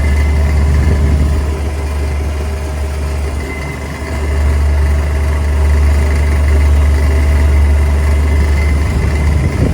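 Walk-in cooler condensing unit running after its condenser fan motor was replaced: a steady low hum with faint steady tones above it. It eases off a little about a second and a half in and comes back up about four seconds in.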